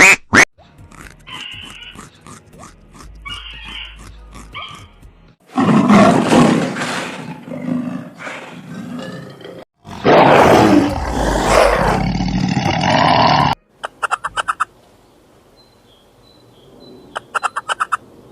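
Loud animal calls in a string of short clips: the two loudest begin about five and ten seconds in, each lasting three to four seconds, with quick runs of clicks after them.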